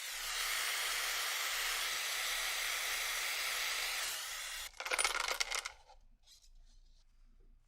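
A steady hiss that stops abruptly after about four and a half seconds, followed by about a second of rapid metallic jingling and clattering, like small loose pistol parts.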